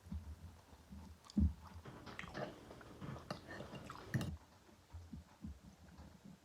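A person chewing food close to the microphone: irregular wet mouth clicks and smacks, with a couple of louder bites about a second and a half and four seconds in.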